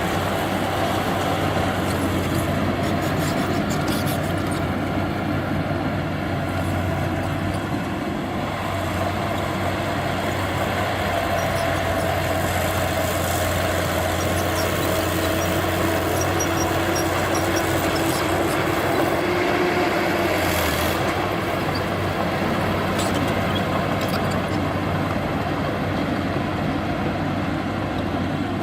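Heavy earthmoving machine's diesel engine running steadily, a constant low hum with a fainter higher whine that drifts in pitch, and a few light clanks.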